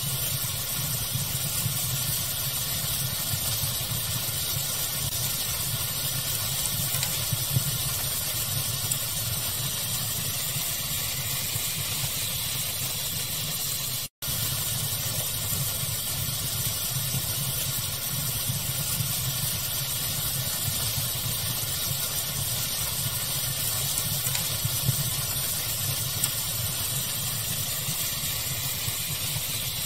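Steady pink-noise hiss layered with a crackling fire, with a low rumble underneath and a few small crackles. It cuts out for an instant about halfway through.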